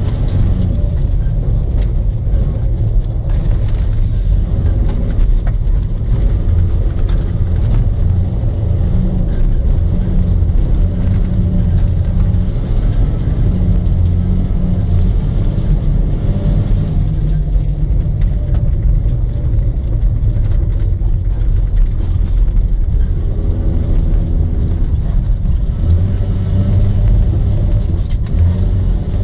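A Toyota Land Cruiser 70's engine and drivetrain running under way, heard from inside the cab. It is a loud, steady low drone whose pitch drifts up and down as it drives.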